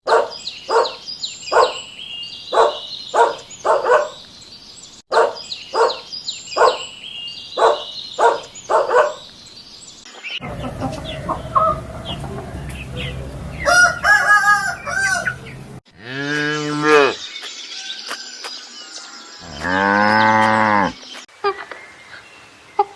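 Chickens clucking, a run of about six sharp clucks played twice over. Then a noisier stretch of short pitched calls, and two drawn-out animal calls that rise and fall in pitch.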